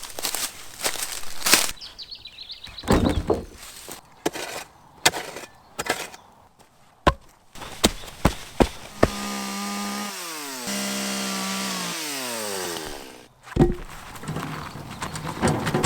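Sharp wooden knocks and cracks of wood being chopped or worked. About nine seconds in, a small-engine tool, likely a chainsaw, runs for about four seconds, its pitch dropping twice as it slows, followed by more knocks.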